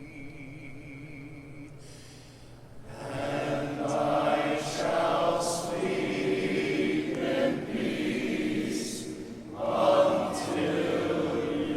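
A single held note with a slow vibrato that stops about two seconds in, then a men's glee club sings together in parts.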